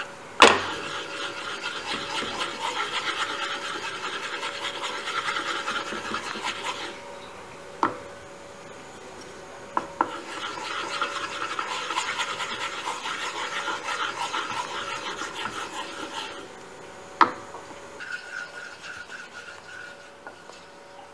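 Fast, rhythmic rasping or scraping strokes in two long runs of about six seconds each, separated and ended by a few sharp knocks.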